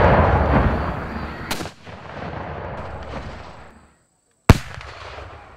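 The rumbling echo of a Civil War-style field cannon's shot dies away over the first second and a half. About four and a half seconds in, another cannon fires with a sharp, loud report that rolls off.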